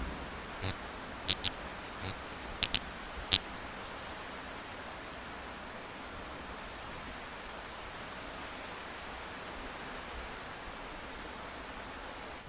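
Heavy rain falling steadily, an even hiss, with seven sharp ticks in the first three and a half seconds.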